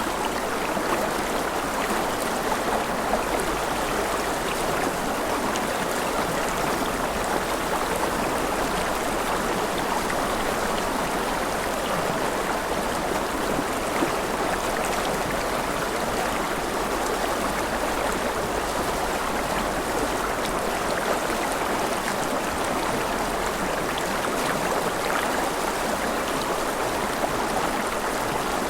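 Mountain river running over rapids: a steady, even rush of flowing water.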